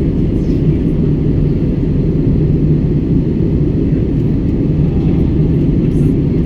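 Steady low drone of an airliner in flight heard inside the passenger cabin: engine and airflow noise, unchanging throughout.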